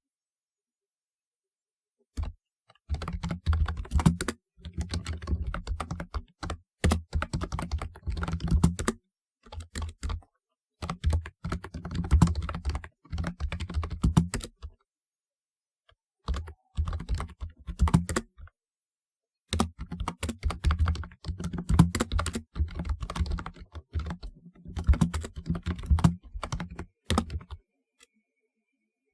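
Typing on a typewriter-style keyboard: fast runs of clacking keystrokes in several bursts, with short pauses between them.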